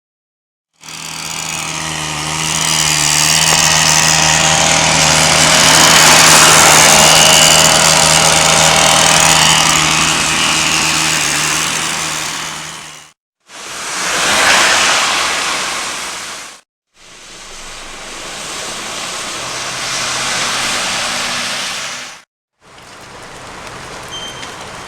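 Road traffic in heavy rain: engine hum and the hiss of tyres on wet road over a wash of rain, in four separate stretches broken by brief silences. The second stretch swells and fades as a vehicle passes.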